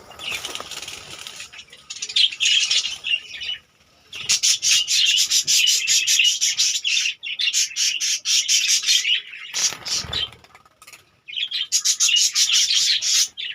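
A colony of budgerigars chattering: a dense stream of rapid high chirps and warbles that breaks off briefly twice, with some rustling mixed in.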